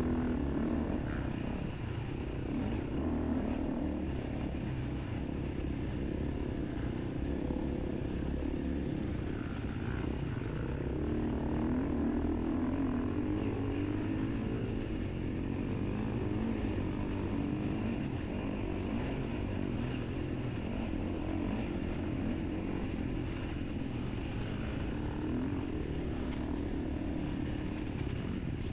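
Enduro motorcycle engine running steadily and continuously, with no breaks.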